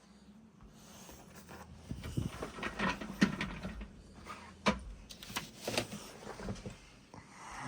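Dogs moving about up close, making a run of irregular clicks, knocks and rustles that grows louder about two seconds in.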